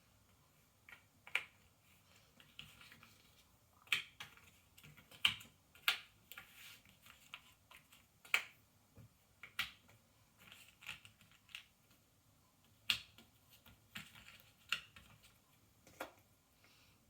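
Ravensburger cardboard jigsaw puzzle pieces clicking and tapping on a tabletop as they are handled and pressed into place. The taps are irregular, about one every second or two, with light rustling of pieces between them.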